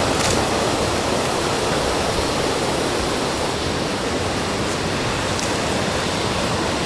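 Mountain stream rushing steadily, a loud, even sound of running water.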